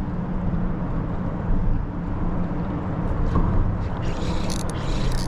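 An engine running steadily, a low even hum over a background of noise, with a few short clicks and scratches near the end.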